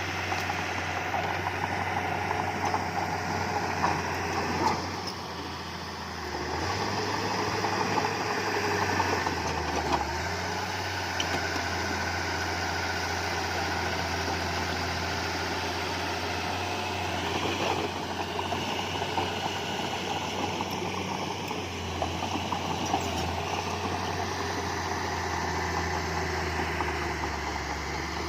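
Diesel engine of heavy earthmoving equipment running steadily, with a few short knocks over it.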